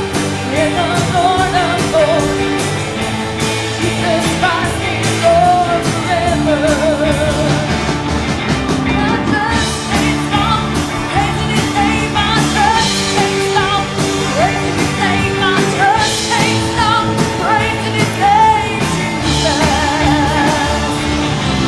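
Live church music: a singer's wavering, held melody over a band with steady chords and drums.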